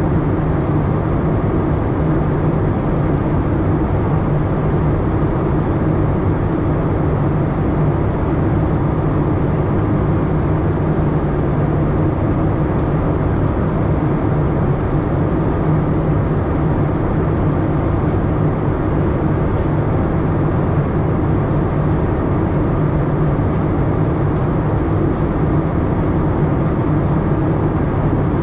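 Steady airliner cabin noise inside a Boeing 787-8: an even hum and rush of engines and airflow that does not change.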